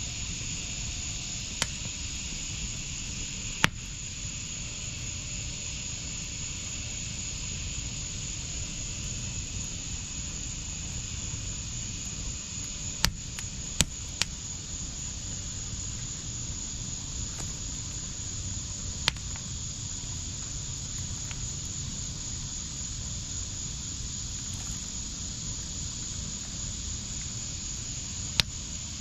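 Wood fire burning in a backyard fire pit: a steady hiss with sharp pops every few seconds, about seven in all, the loudest near the start and in a close cluster of three around the middle.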